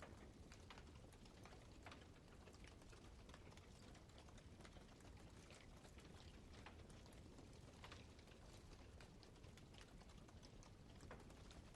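Wood campfire burning, with faint, irregular crackles and pops over a low steady rumble.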